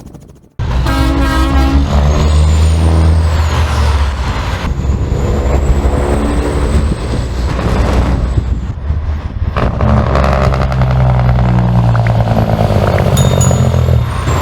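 Semi-truck diesel engines running loud as the rigs go by, with an air horn blast about a second in and another at the very end.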